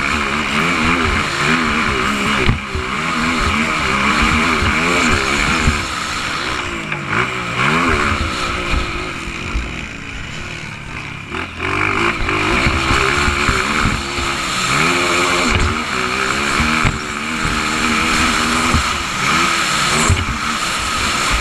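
Motocross dirt bike engines revving hard, their pitch climbing and dropping again and again as they run through the gears.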